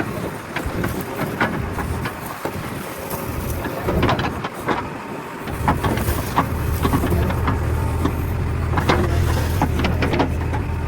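JCB backhoe loader's diesel engine running under work, with repeated sharp knocks and cracks throughout. About halfway in the engine's low rumble grows steadier and stronger, as it comes under heavier load.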